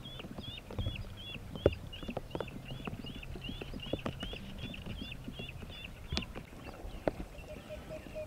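Duckling peeping over and over, short high hooked peeps about three a second, stopping about six seconds in. Scattered sharp knocks and clicks sound throughout.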